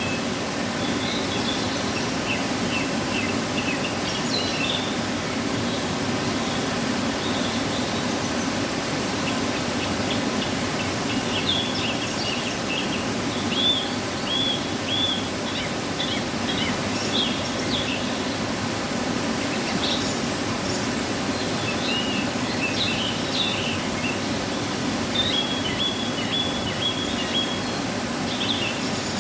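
Waterfall after rain, its water falling in a steady, even rush. Small birds chirp in short high calls on and off over it.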